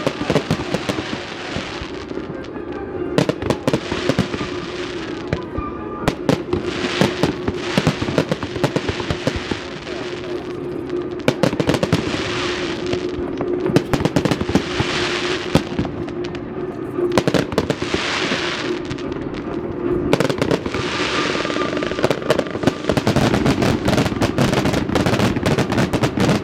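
Fireworks display: a dense run of bangs and crackling, surging in waves of crackle about every two to three seconds, over a steady low hum.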